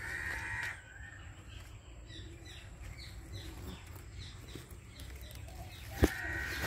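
Birds calling: a harsh call at the start and again near the end, with a run of quick, high, falling chirps in between. A single sharp tap sounds about six seconds in.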